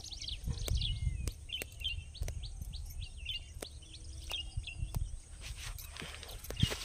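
Small birds chirping, many short sweeping calls repeated in quick series, with scattered sharp clicks and a low rumble underneath.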